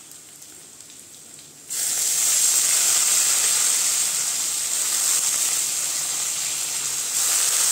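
Boiled, still-wet shredded cabbage dropped into hot mustard oil in a steel kadai, where it sets off a loud, steady sizzle that starts suddenly about two seconds in after a quieter start.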